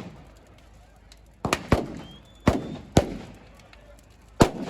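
Five sharp firework bangs, the first two close together about a second and a half in, the others spread out to near the end, each with a short echo.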